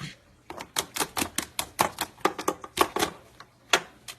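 A parrot's beak clicking and nibbling: a quick, irregular run of sharp clicks, about three or four a second.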